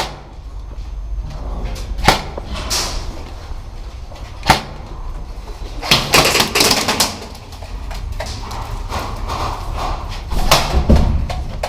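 Airsoft guns firing in scattered single sharp shots, a few seconds apart, with a denser spell of clicks and rustling a little past halfway and again near the end.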